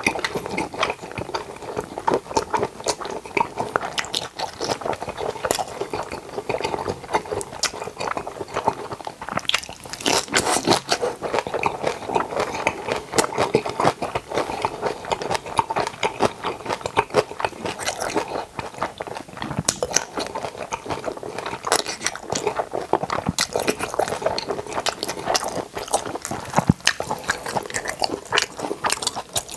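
Close-miked eating sounds: continuous crunching and chewing of kimjang kimchi and bossam, dense crackling bites one after another.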